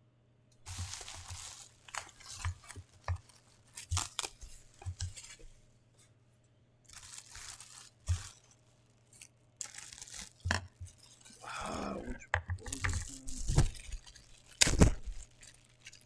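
Packaging being torn open and crinkled by hand, in irregular bursts of tearing and rustling with short pauses and a few sharp knocks.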